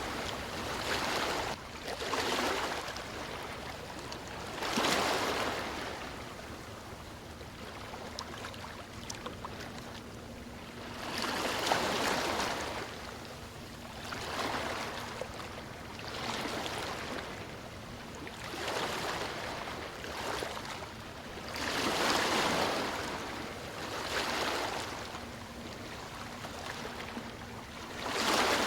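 Sea waves washing onto a beach, each wash swelling and fading, one every two to three seconds.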